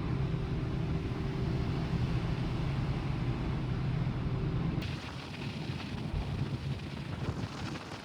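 Steady low drone of a large car ferry's engines and machinery. About five seconds in it cuts to a hissier rushing noise with more treble in it.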